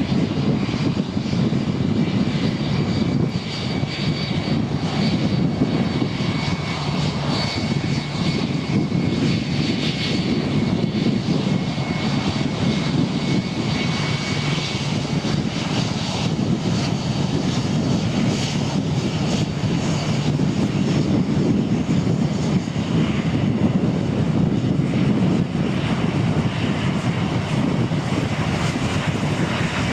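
McDonnell Douglas MD-90's IAE V2500 turbofan engines running at low power, a steady rumble with a high whine. In the last couple of seconds a whine rises in pitch as the engines begin to spool up.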